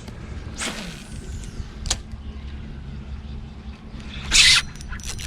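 Low steady hum from the boat, with a short whoosh and a click early on, then a brief loud splash about four seconds in as a big fish jumps clear of the water.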